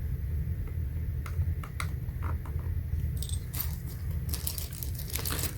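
Light clicks and small rattles of objects being handled on a workbench, sparse at first and busier after about three seconds, over a steady low hum.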